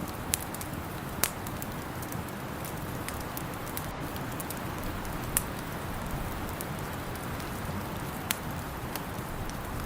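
Wood fire crackling in a fireplace: sharp pops every second or few over a steady low rushing noise.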